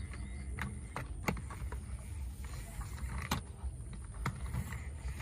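Diecast toy trucks being handled: irregular light clicks and knocks over a low steady rumble.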